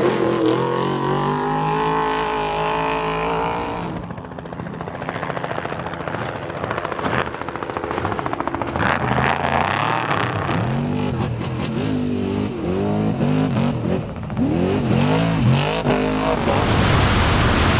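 Trophy truck engine at high revs, held fairly steady at first, then revving up and down in a string of quick rises and falls in the second half.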